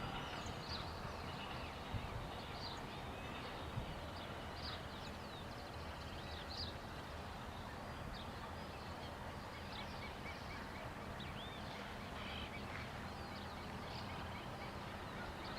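Birds chirping, with short repeated calls throughout, over a low steady hum.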